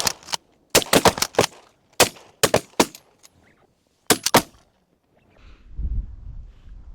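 Rapid volley of shotgun blasts from several hunters firing together: about a dozen shots in the first four and a half seconds, in ragged clusters. After that, a low wind rumble on the microphone.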